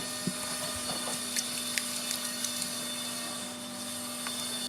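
A steady machine hum with a constant low tone, broken by a few light clicks and taps.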